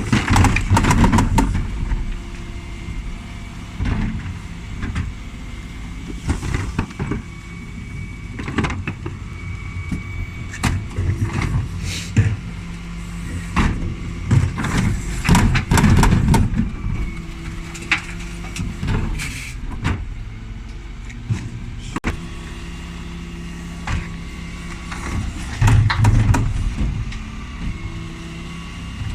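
Dennis Elite 6 refuse lorry's diesel engine running steadily while bins are emptied with its Terberg lift, broken by repeated knocks and clatters of bins and the lift, with several louder surges.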